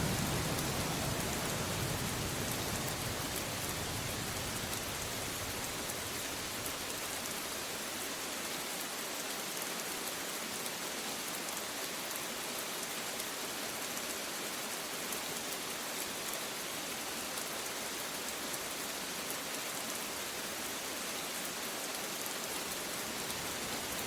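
Steady heavy rain falling, an even hiss with a dense patter of drops. The low rumble of a thunder roll dies away over the first few seconds.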